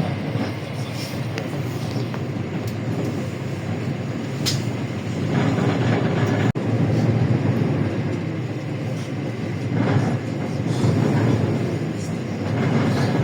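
Cabin sound of a LiAZ-677M city bus on the move: its petrol V8 and the road make a steady low rumble, with body panels rattling and clicking. The rumble grows louder about five seconds in.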